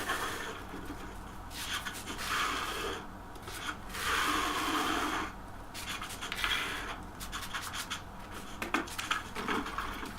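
Scraping and rubbing on a hard surface in uneven strokes of about a second each, the longest and loudest about four seconds in, with a few light clicks between them.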